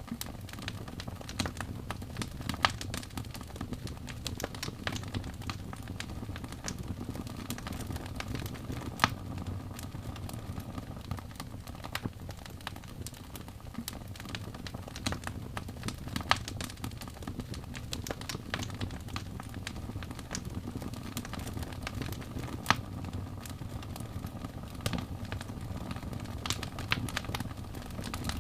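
Wood fire in a fireplace crackling: frequent sharp pops and snaps over a steady low rumble of flames, with a few louder pops now and then.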